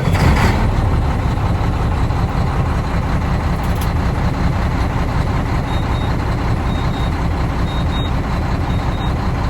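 A Volvo tri-axle diesel dump truck's engine is started cold in freezing weather. It catches right at the start and settles into a steady idle. Faint short beeps repeat about once a second in the second half.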